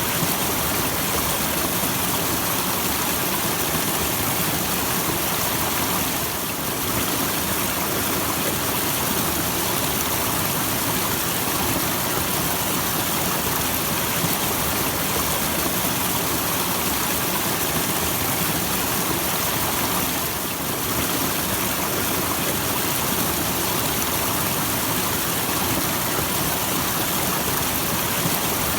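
Small waterfall splashing and rushing in a steady, full hiss of falling water.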